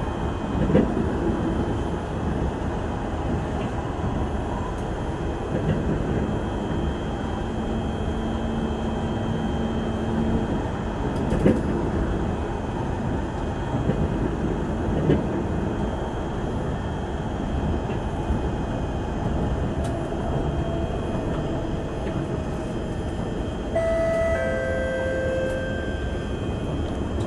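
Singapore MRT train running at speed, heard from inside the car: a steady rumble and rail noise with a few sharp knocks. Near the end a two-note falling chime sounds over it.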